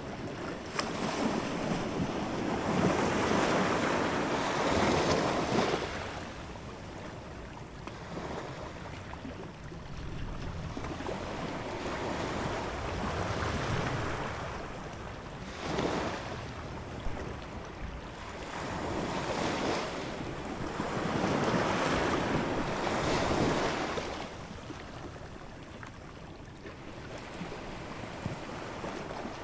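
Ocean waves breaking and washing on a shore, the surf swelling and ebbing in long surges every few seconds.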